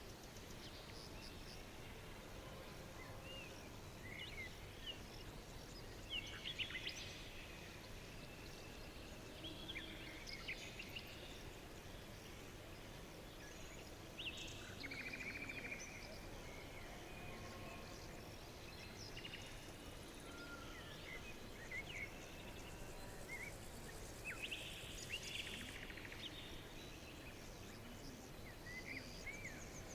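Songbirds chirping and calling in short, scattered phrases every few seconds over a steady hiss of outdoor background noise.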